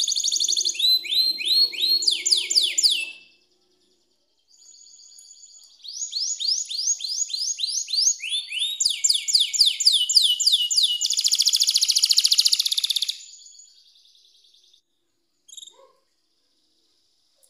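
Domestic canary singing in fast rolls of repeated, downward-sweeping high notes, each roll changing to a new syllable. The song breaks off briefly about three seconds in, resumes, and stops a little before the end with a single short note after it.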